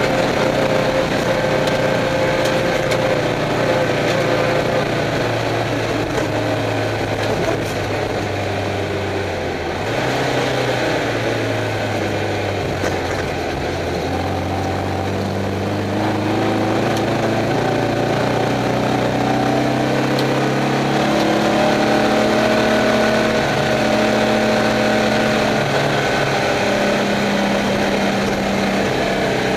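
Air-cooled Volkswagen Beetle flat-four engine of a Class 11 stock race car, heard from inside the car while it is driven. The engine note rises and falls several times with throttle and gear changes, over a steady rushing noise.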